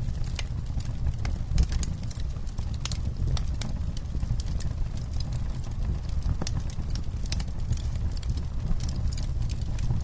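Campfire burning: a steady low rumble of the flames with many irregular sharp crackles and pops from the burning wood.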